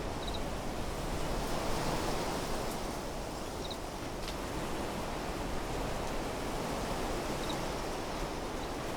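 Wind blowing steadily through desert trees, a broad rushing hiss that swells a little about two seconds in. A few brief, faint high chirps sound over it, about three times.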